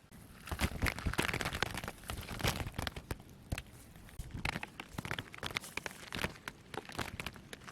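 Irregular rustling and crackling of dry plant material, with many short, uneven crackles and snaps.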